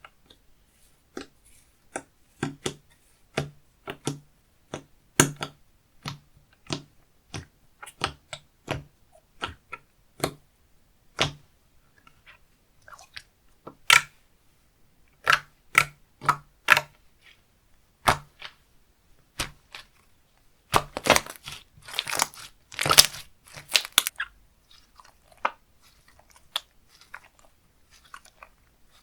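Slime being pressed and stretched by hand, giving sharp clicks and pops about once a second, with a dense run of crackling about three-quarters of the way through.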